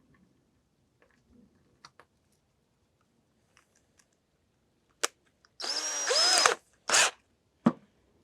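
Power drill run in short trigger bursts: a quick blip about five seconds in, a longer burst of about a second with the motor's whine rising and falling, then another short blip, with small clicks of handling before and a click near the end.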